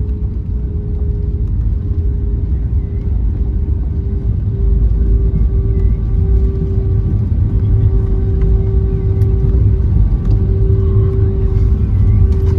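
Cabin noise of an Airbus A320neo arriving: a steady low rumble with a steady hum from the engines, growing louder about four and a half seconds in.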